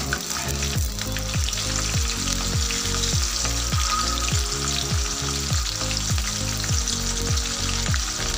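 Garlic and chopped green chillies sizzling and crackling in hot oil in an aluminium kadhai, with a low beat of thuds repeating about twice a second underneath.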